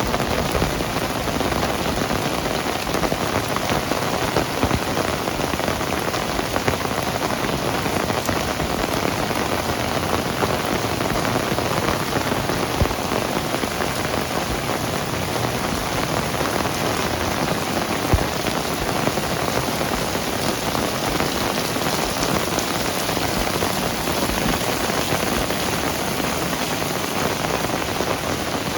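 Heavy rain falling steadily, a dense even rush with a few sharper drop taps standing out now and then.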